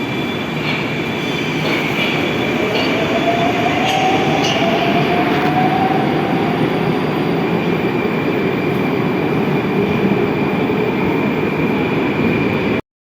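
Metro train running on the rails: a steady rumble with a few sharp clicks of wheels over rail joints in the first few seconds and a faint slowly rising motor whine. It cuts off abruptly near the end.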